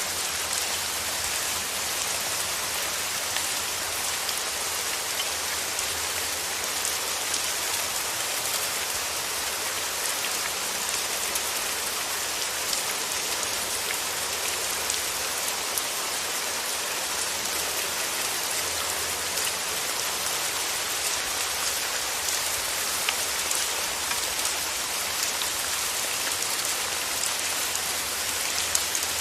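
Steady rain falling on surfaces, a dense even hiss of many drops with fine individual drop ticks.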